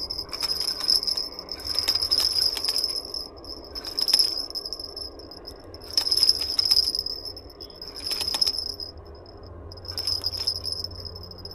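Fishing reel's drag clicking and buzzing in repeated bursts of about a second as a hooked carp pulls line off the spool.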